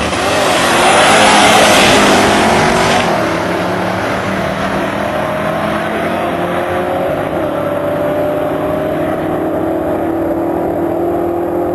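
Twin-turbocharged 357-cubic-inch LT1 V8 of a 1996 Camaro SS running under power. A loud rushing surge lasts about three seconds, then a steady engine note climbs slowly in pitch as the car pulls in gear.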